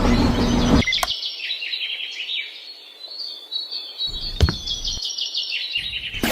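Birds chirping in a quick run of short, high, falling notes. A sharp click comes about a second in and another past the four-second mark.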